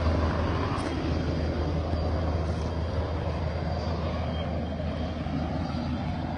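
Helicopter running steadily overhead, a constant low drone that eases off slightly over the few seconds.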